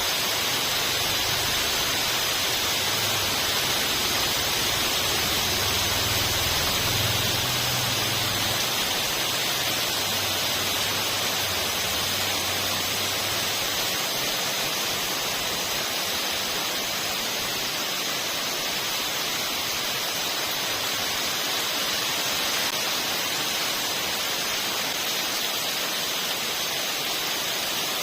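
Steady rain falling, an even hiss with no separate drops standing out. A faint low hum sits under it for the first half.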